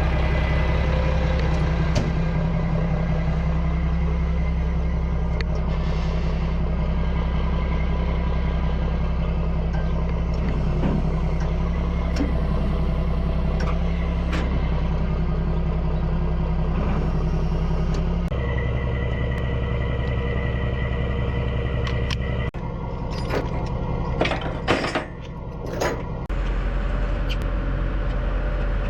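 Mack truck's diesel engine running steadily while the truck is driven, heard in the cab. Its note steps about two-thirds of the way through, and a few sharp knocks and clatters follow before the engine settles on a lower note near the end.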